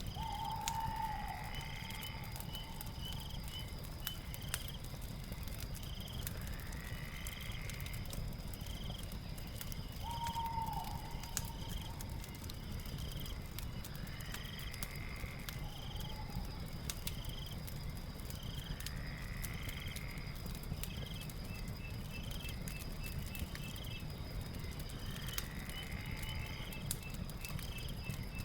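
Night ambience over a crackling fireplace: a steady low fire rumble with scattered sharp crackles, insects chirping and droning steadily, and a night creature calling again and again every few seconds.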